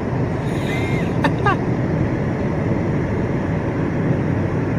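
Steady tyre, road and engine noise inside a moving car's cabin, with a brief faint voice-like sound about a second in.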